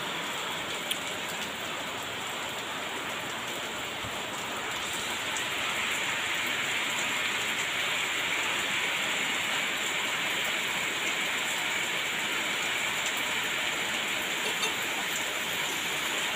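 Heavy rain pouring steadily, with water streaming off the edge of an overhanging roof; it grows a little heavier about five seconds in.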